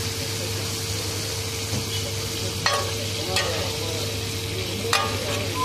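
Chicken pieces sizzling in oil on a flat griddle while a metal spatula stirs and scrapes them, with three sharp clanks of the spatula on the griddle in the second half.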